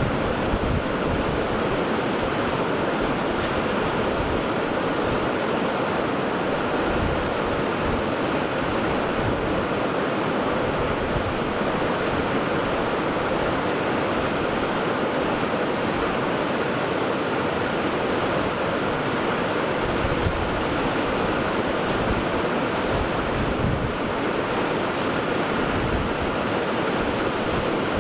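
Pacific Ocean surf breaking on the shore, a steady unbroken wash of waves, with wind buffeting the microphone in low rumbles.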